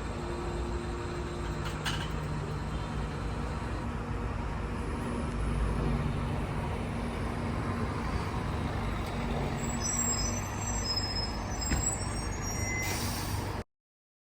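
Steady low hum and rumble of a pantograph-equipped electric bus running, with a few short high-pitched chirps near the end. The sound cuts off abruptly shortly before the end.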